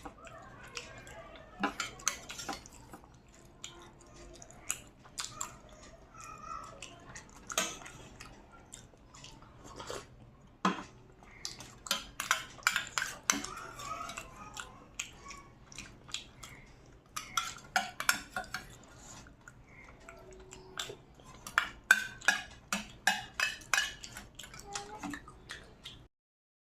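Utensil and dishes clinking: sharp clicks and taps of cutlery against a plate or bowl while eating, coming in quick clusters. The sound cuts off just before the end.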